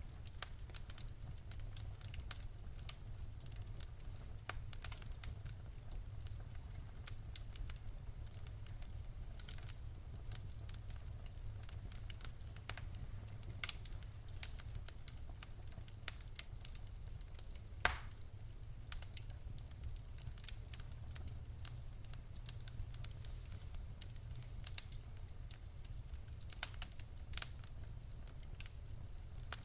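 Wood fire burning in a fireplace: a steady low rumble of flames with frequent small crackles of burning logs and a few louder pops, the loudest about 18 seconds in.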